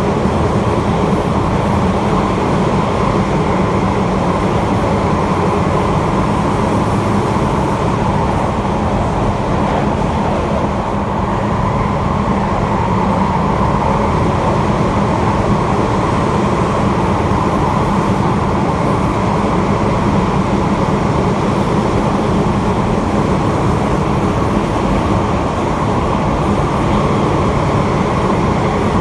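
Osaka Metro 80 series linear-motor subway train with Hitachi IGBT inverter, heard from inside the car while running at a steady speed: a continuous loud rumble of running gear and tunnel noise.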